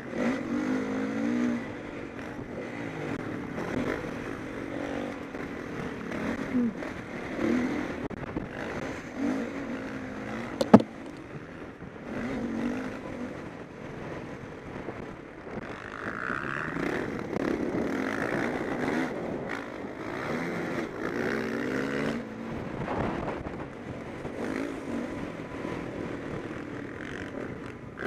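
Motocross bikes racing, their engines revving up and down over and over as the riders accelerate and shift. A single sharp knock stands out about ten seconds in.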